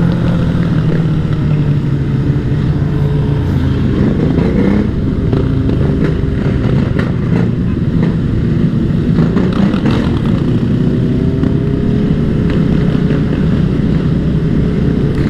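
Dirt bike engine running under way, its pitch mostly steady with a brief rise about four seconds in and gentle shifts as the throttle changes.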